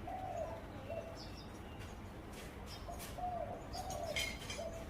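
Zebra dove cooing: a run of short coos near the start and another from about three seconds in. Higher chirps of other birds are heard between them.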